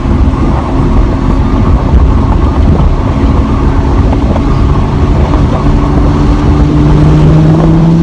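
Lamborghini Huracan Spyder's 5.2-litre V10 engine running as the car drives, over a heavy low rumble. From about two-thirds in, the engine note comes through clearly and climbs gently in pitch as the car gathers speed.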